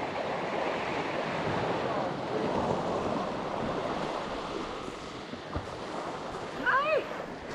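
Sea waves washing onto a rocky shore: a steady surf hiss, with a brief vocal-like call near the end.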